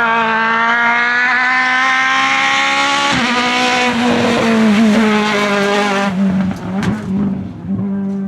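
Naturally aspirated Group F2000 rally car engine revving hard under acceleration, its pitch rising steadily, then lifting off sharply about three seconds in. The note falls and turns rougher as the car slows, with a few sharp pops near the end.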